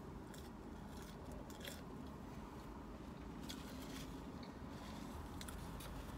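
Quiet chewing of french fries, with scattered small mouth clicks and a paper napkin rustling, over a steady low hum.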